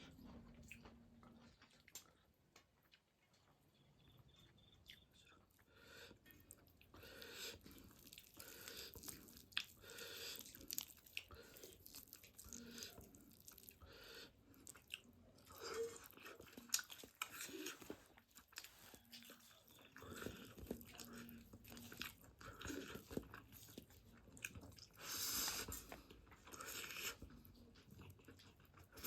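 Close-up eating sounds: chewing and smacking of biryani. Quiet at first, then irregular wet smacks, clicks and crunches through the rest.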